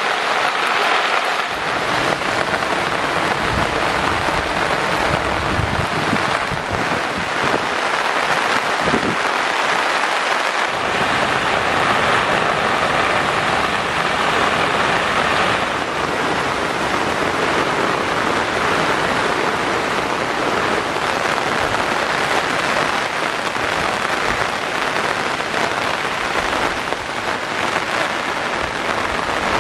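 Steady, heavy rain falling, an even hiss of rain on surfaces with no break.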